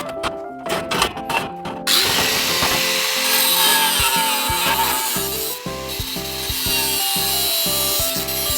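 A power tool working thick stainless steel: a loud, steady hiss that starts about two seconds in and stops just before the end. Background music with a steady beat plays underneath.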